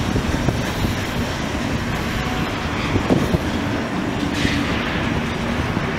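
Steam-hauled train of vintage passenger coaches rolling past on the rails, a steady rumble of wheels on track with a sharper knock about three seconds in.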